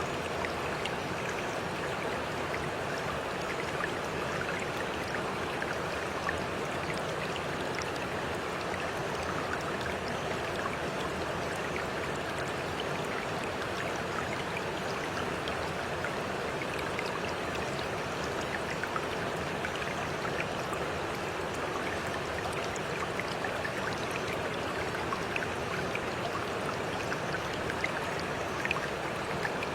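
A stream of water running steadily, an even rush with many small splashes and drips scattered through it.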